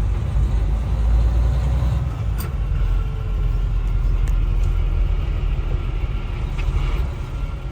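Steady low drone of a heavy truck's engine and road noise heard from inside the cab while driving in traffic.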